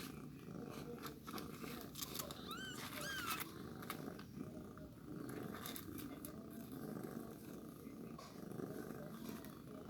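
A cat purring steadily while nursing kittens, with two short, arching, high-pitched kitten mews about two and a half and three seconds in.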